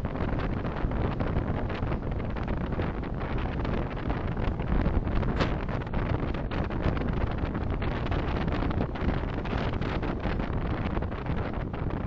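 Steady road, tyre and wind noise of a car driving, picked up by a dashcam microphone.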